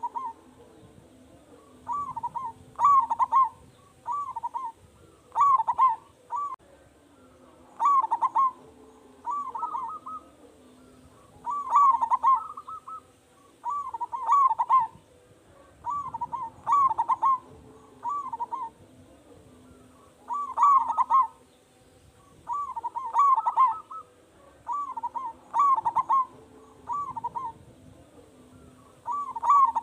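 Zebra dove (perkutut) cooing: short bursts of quick rolling notes, each about a second long, repeating every one to two seconds.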